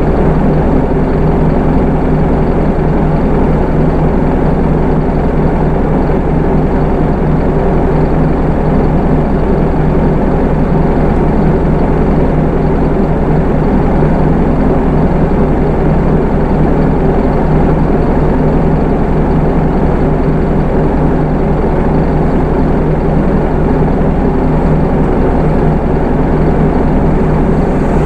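Hino Rainbow II (SDG-KR290J1) bus's 4HK1 four-cylinder diesel running at a steady, even pitch, with road noise under it.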